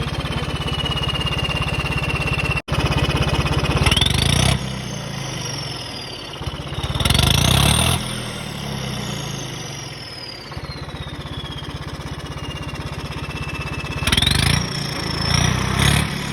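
Turbocharged Swaraj tractor diesel engine being revved three times over a steady idle. With each rev the turbo whistle climbs sharply, then slides slowly down over several seconds as the turbo spools down.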